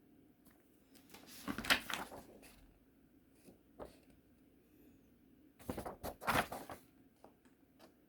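Plastic model kit parts and their packaging being handled: two spells of rustling and knocking, one about a second and a half in and another around six seconds in, with a few light clicks between.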